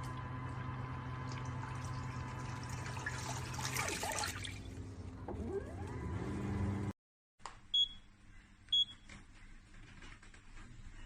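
Portable folding mini washing machine running with water sloshing: a steady motor hum, with a whine that rises in pitch about five seconds in. It stops abruptly about seven seconds in, and is followed by two short high beeps about a second apart from the machine's controls.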